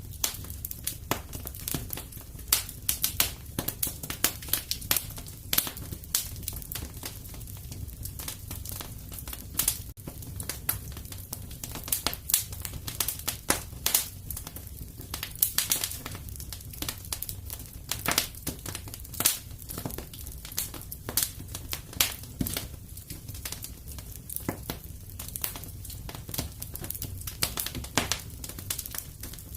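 Fire in a fireplace crackling, with irregular sharp pops and snaps, several a second, over a steady low background.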